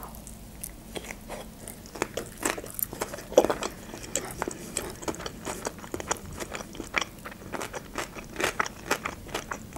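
Mouth biting into and chewing a sushi roll: an irregular run of short wet smacks and soft crunches, several a second.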